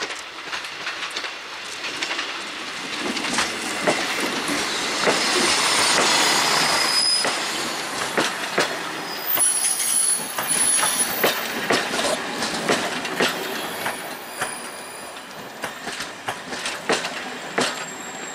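ČD class 814 Regionova diesel railcar shunting past, its wheels clacking over rail joints and points with brief high wheel squeal. The sound builds to its loudest about six seconds in, then slowly fades.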